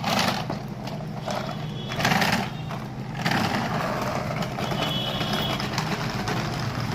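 A steady low engine hum, as of an engine idling, with a few short bursts of scraping or rustling noise near the start, about two seconds in and about three seconds in.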